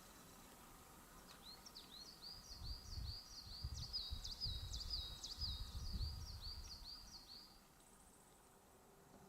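A small songbird singing a fast run of repeated high, hooked notes for about six seconds, faint against the outdoor background, with a low rumble under the middle of the song.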